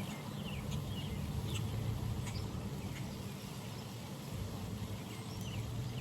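Outdoor pond ambience: birds chirping in short, scattered calls over a steady low hum.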